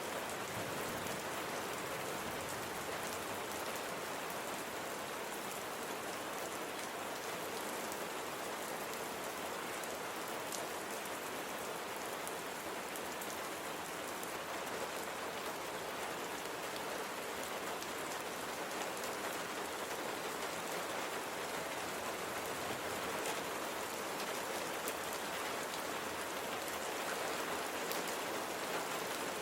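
Steady rain falling on a surface, an even hiss with scattered drops pattering.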